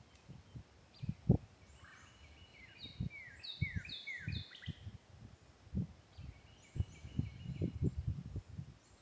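A songbird singing two short phrases, the first a quick series of falling notes. Irregular low thuds and knocks sound close by, the loudest about a second and a half in.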